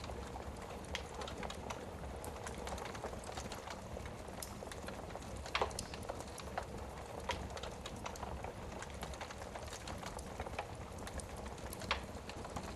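Wood fire burning in a fireplace: irregular crackles and pops over a steady hiss of the flames, with a louder pop about halfway through and another near the end.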